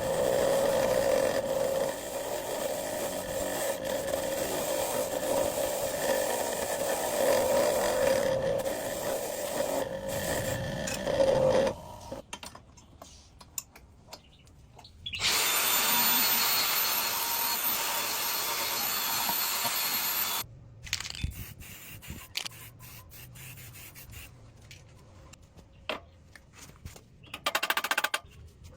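A power tool runs steadily with a hum for about twelve seconds, then stops. After a short pause a louder, hissing stretch lasts about five seconds, followed by scattered light clicks and ticks.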